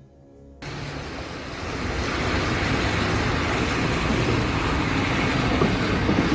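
Road traffic noise: a steady rush of vehicles and tyres on the road, starting abruptly under a second in.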